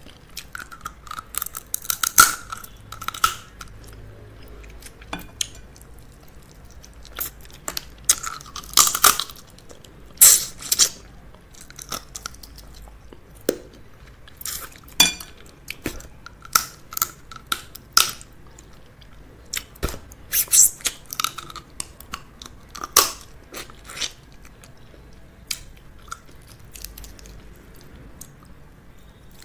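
Close-miked chewing and crunching, crab shell being bitten and cracked, with sharp cracks coming irregularly, several to a second in bursts.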